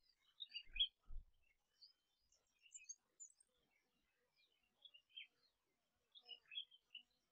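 Faint, scattered bird chirps and short calls, with two soft low thumps about a second in.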